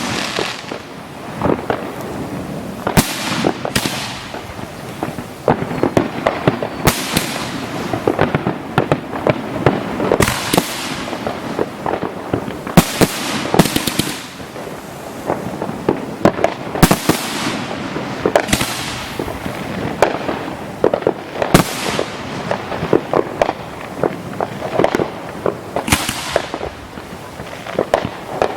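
Fireworks display: a steady run of sharp bangs and pops, at times several in a second, with crackling between them.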